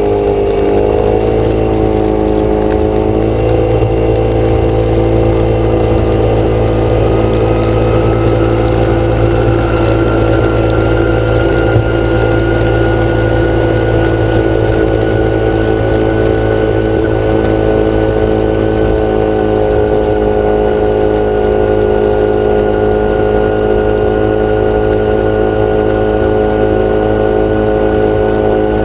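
An engine or motor running steadily at an even speed, with a faint whine that rises slowly in pitch over the first half.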